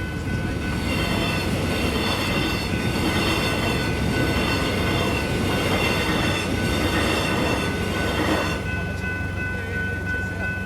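Train passing over a level crossing: wheel and rail noise swells about a second in, pulses unevenly, and drops away near the end. Under it the crossing's electronic bells keep ringing as a steady high tone.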